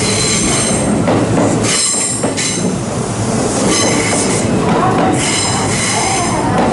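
Kintetsu Aozora II charter train cars rolling slowly past along a platform: a steady wheel rumble with high-pitched wheel squeal that comes and goes in several bouts.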